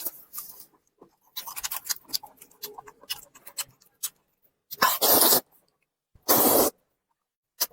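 Close-miked eating sounds: wet chewing and lip-smacking clicks, then two loud, short slurps about a second and a half apart.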